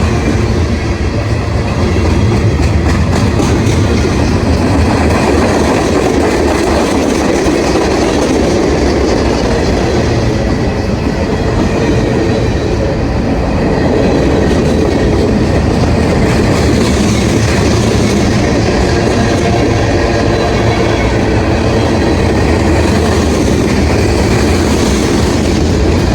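A freight train's cars rolling past, wheels clicking over rail joints in a steady run.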